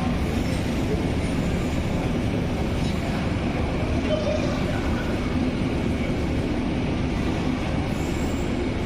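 Train running: a steady, unbroken low rumble.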